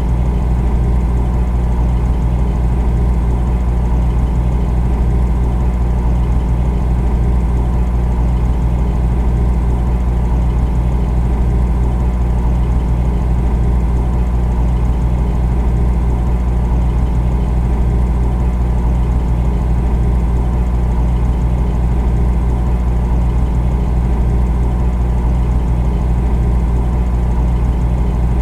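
Refrigerator running: a steady, unbroken low hum that does not change.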